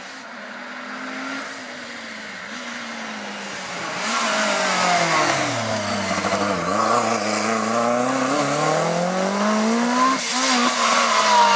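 Lancia Delta S4 Group B rally car's twincharged four-cylinder engine. Its note falls as the car slows and gets louder about four seconds in, then climbs steadily under acceleration, breaks briefly near the end with a gear change, and climbs again.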